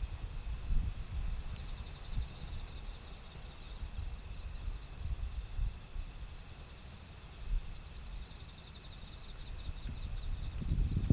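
Wind gusting against the microphone in low, uneven rumbles that build near the end, with insects chirping faintly in an even, repeating pattern behind it.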